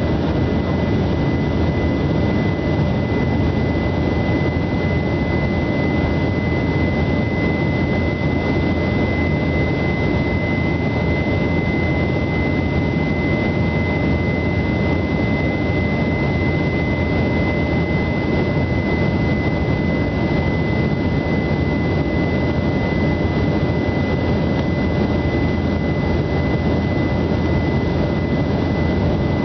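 Aircraft engines and airflow heard from inside the cabin in flight: a loud, steady rush with a constant high-pitched whine running through it.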